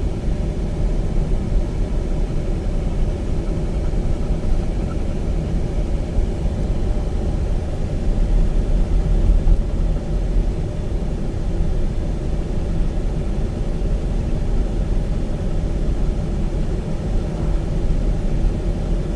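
Car driving along, a steady low rumble of engine and tyres on the road heard from inside the cabin, swelling slightly about halfway through.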